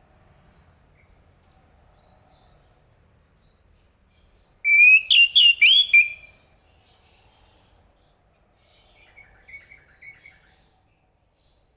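Chestnut-capped thrush singing: a loud, quick phrase of about five sliding whistled notes about five seconds in, then a fainter run of short notes a few seconds later.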